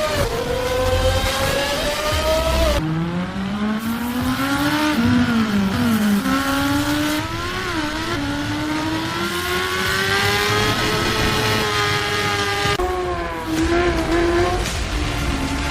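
A high-revving motorcycle engine accelerating. Its pitch climbs, drops abruptly just under three seconds in as if shifting gear, then rises and falls several times before a long steady climb.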